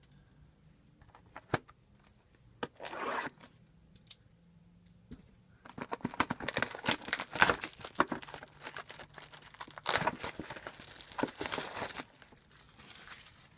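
Plastic wrapping on a box of trading cards being torn open and crinkled. A few light clicks and rustles come first, then about six seconds of steady tearing and crinkling that dies away near the end.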